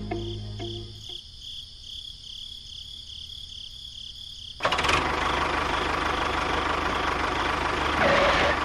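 Motor of a miniature model tractor running steadily, starting abruptly about four and a half seconds in. Before that there is only a faint steady whine as background music ends.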